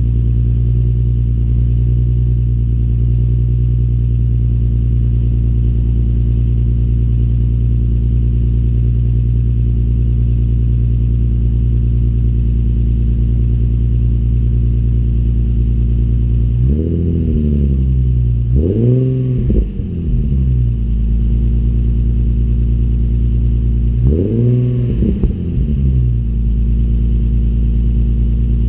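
Infiniti G37S's 3.7-litre V6 through an ARK Grip cat-back exhaust idling steadily while still warming up from a cold start. It is given a few quick throttle blips a little past the middle, then another pair about three-quarters through, each revving up and dropping straight back to idle.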